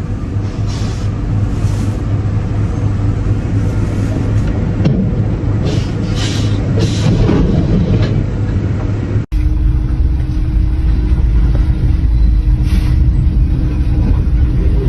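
Deep, steady vehicle rumble of road and engine noise. About nine seconds in it cuts off abruptly and resumes as another deep vehicle rumble with a faint steady hum over it.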